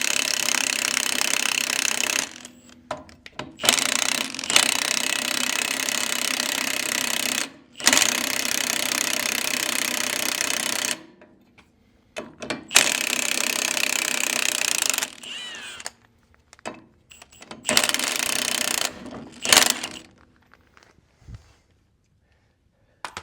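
Milwaukee half-inch impact wrench hammering in about six bursts of a few seconds each, with short pauses between them, breaking loose the screws on a Farmall Cub tractor's steering gear. The last few seconds are nearly quiet.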